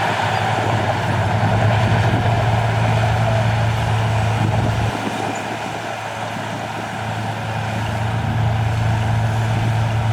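Heavy diesel engine of earthmoving machinery working, with a strong low hum. It eases off about five seconds in and builds again about two seconds later.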